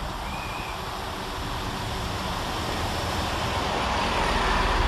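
Class 165 Networker Turbo diesel multiple unit approaching, its engine and wheel noise growing steadily louder, with the low rumble building near the end.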